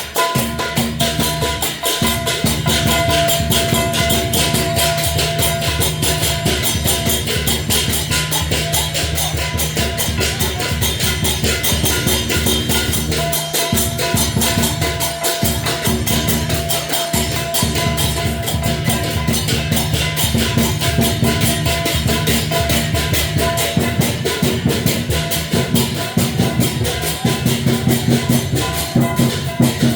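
Chinese dragon-dance percussion: a drum beating a fast, continuous rhythm with crashing cymbals, under a few steady ringing tones.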